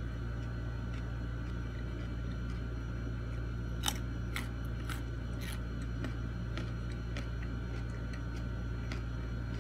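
A person chewing crunchy food close to the microphone, with a few crisp crunches about half a second apart in the middle, over a steady low hum.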